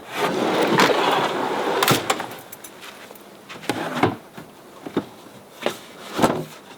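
Camping gear being handled: a click, then about two seconds of loud rustling, followed by a few scattered knocks and clicks.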